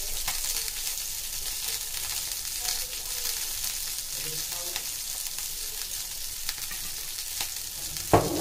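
Sliced onions and tomatoes sizzling in oil in a frying pan, a steady crackling hiss, with one sharp knock near the end.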